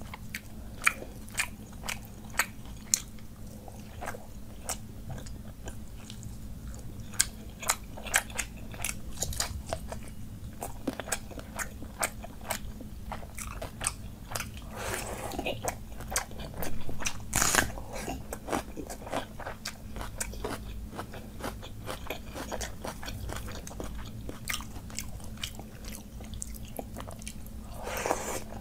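A person eating close to the microphone: many sharp crunching bites and chewing of a meal of panta bhat (soaked rice in water) with raw onion, green chili and fried fish, with a few longer, noisier chewing stretches in the middle and near the end.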